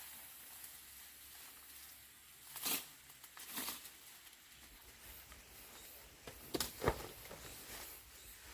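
Faint steady hiss with a few short rustles: one about a third of the way in, another soon after, and a close pair, the loudest, about two-thirds through.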